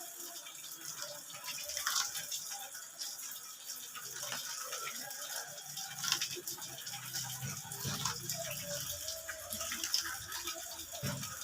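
Water splashing and dripping in irregular little splashes while a black-winged starling is being bathed.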